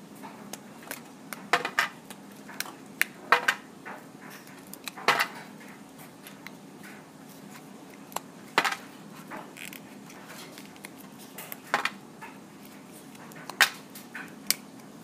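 Sharp scissors cutting a plastic DVD into pieces: irregular sharp snaps and clicks, a dozen or so, as the blades crack through the disc.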